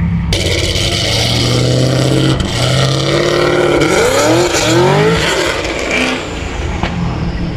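A 5.3-litre GM Vortec V8 in a Prius engine bay runs steadily. About four seconds in its pitch sweeps upward in a couple of quick rises, like throttle blips.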